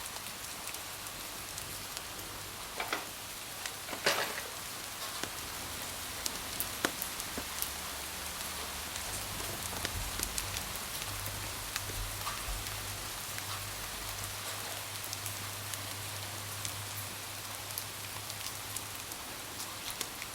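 Steady patter of rain: an even hiss scattered with many small drop ticks, with a brief louder cluster of ticks about four seconds in and a faint low hum underneath for a while.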